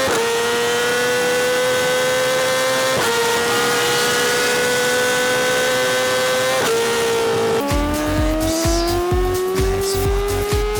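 Yamaha R6's inline-four engine through an Akrapovic exhaust, revving high under acceleration, its pitch climbing and then stepping down at quick gear changes about three and six and a half seconds in. About seven and a half seconds in the pitch drops much lower and climbs again, and a gusty low rumble joins it.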